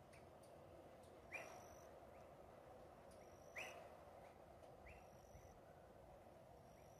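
Faint outdoor quiet with a few short bird chirps, two clearer ones about a second in and again two seconds later, over a faint steady background noise.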